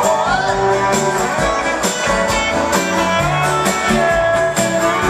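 Live band playing an instrumental stretch with guitar over a steady drum beat.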